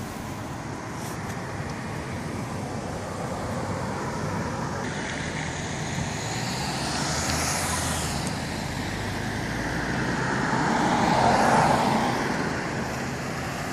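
Road traffic: cars going past on the road, one swelling and fading about seven seconds in and a louder one about eleven seconds in, over a steady traffic hum.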